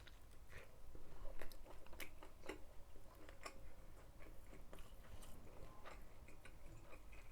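A person chewing a mouthful of a McDonald's Double Jalapeño Chicken burger close to the microphone: irregular small sharp mouth clicks.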